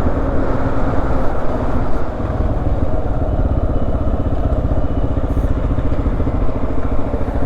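Adventure motorcycle's engine running steadily, its fast even firing pulses heard through a helmet-mounted camera.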